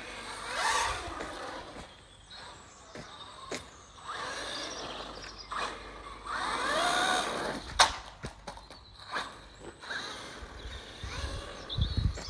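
Electric motors of small radio-controlled cars whining up and down in pitch as they accelerate and slow, with a couple of sharp knocks about three and a half and eight seconds in.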